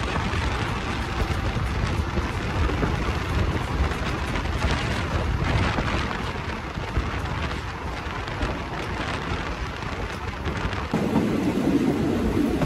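Ride noise of a moving passenger train heard from on board: a steady rumble of wheels and carriage with rushing air. About eleven seconds in it deepens into a heavier drone.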